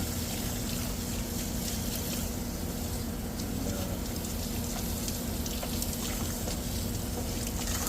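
Outdoor AC condenser unit running, its condenser fan motor giving a steady electrical hum under an even rush of air.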